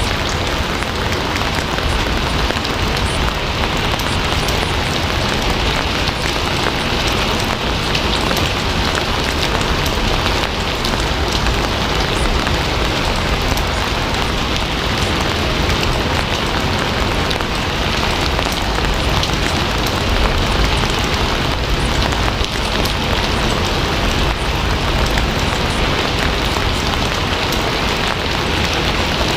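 Steady rain falling on a surface: a dense, even hiss with many small drop patters.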